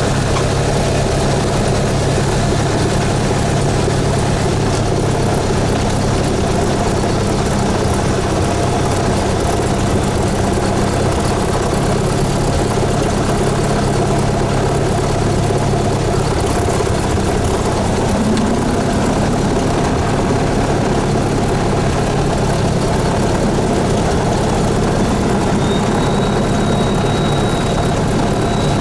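Cessna 172S's four-cylinder Lycoming piston engine and propeller running steadily, a constant low drone.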